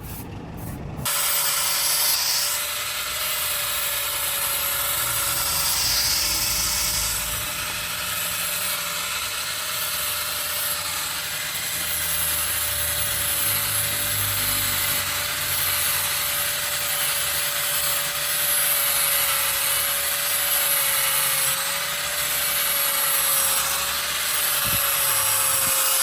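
An electric power tool running continuously, switched on about a second in: a steady motor hum under a dense hiss of the tool working the material.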